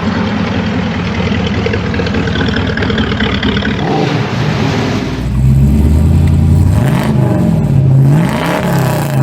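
A car engine running steadily, then from about five seconds in revved up and down several times, its pitch rising and falling as it gets louder.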